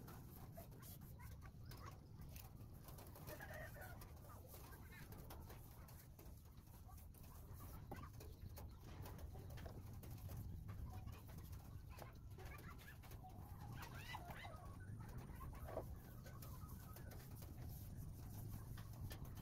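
Faint bird calls: a few short wavering calls scattered through, over a low steady background rumble.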